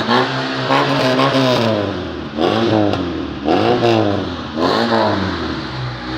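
Tofaş Doğan SLX car exhaust as the engine is revved in repeated blips, the pitch climbing and dropping back about four times, an exhaust being tried out by revving.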